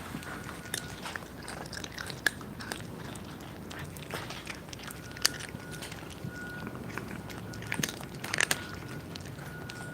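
Cats chewing and crunching their food: a run of irregular crisp crunches, with a few sharper ones about two, five and eight seconds in.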